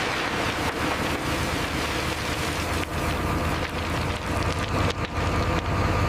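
Heavy construction machinery running: a steady low rumble under a constant noisy hiss, with a few brief dips.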